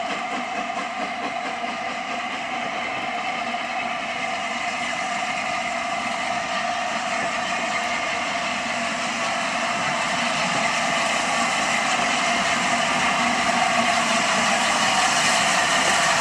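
A steam-hauled train approaching, its running noise growing steadily louder.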